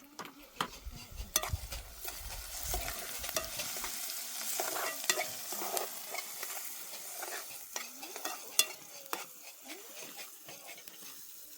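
Food sizzling in a hot pan while it is stirred, a steady hiss broken by sharp scraping clicks.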